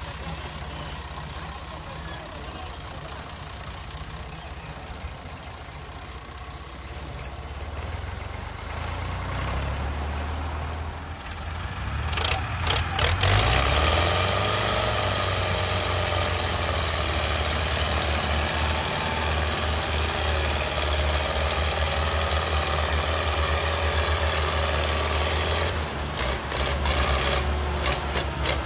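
Farm tractor diesel engines running. About twelve seconds in they rise to a louder, harder-working note and hold it, the tractors straining to pull a stuck loaded trolley. There are a few rattling knocks around that moment and again near the end.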